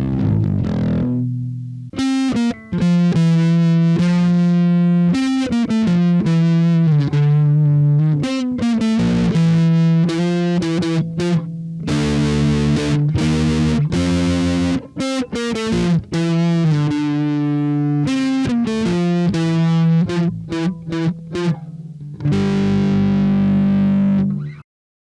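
Harley Benton MB-4 SB Deluxe electric bass guitar playing a line of single notes with short pauses, ending on a held note that cuts off abruptly near the end.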